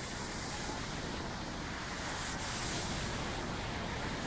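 Steady hiss of falling rain mixed with the noise of city traffic.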